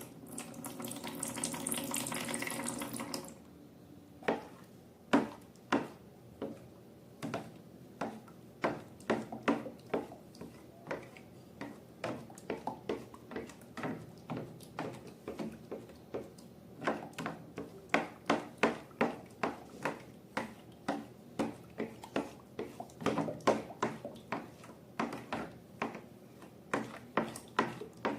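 Liquid poured or running for about three seconds, then a long run of short wet pops and clicks, a few a second, as slime is squeezed and stretched by hand.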